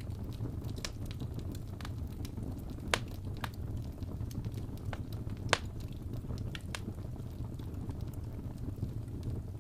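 Fireplace fire crackling: a steady low rumble of flames with scattered sharp pops, two louder ones about three and five and a half seconds in.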